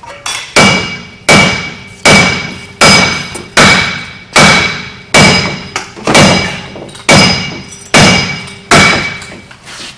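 Heavy hammer blows on steel, about a dozen of them, coming steadily roughly every three-quarters of a second. Each strike rings and dies away. The blows are driving a seized wheel hub bearing assembly out of a truck's steering knuckle, and the hub is just starting to move.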